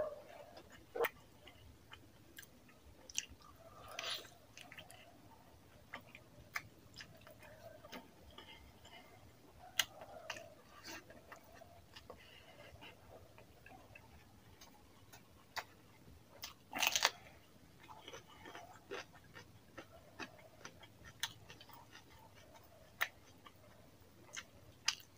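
Close-miked eating sounds of a man eating rice and chicken curry by hand: soft chewing and wet mouth smacks. Short clicks are scattered throughout, and the loudest smack comes about two-thirds of the way through.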